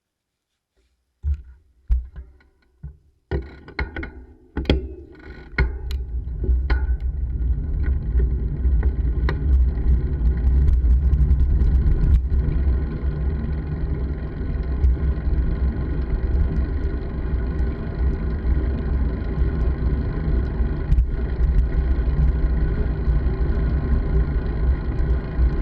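A few knocks and clunks, then a steady low rumble of wind and road noise on a moving bike-mounted camera.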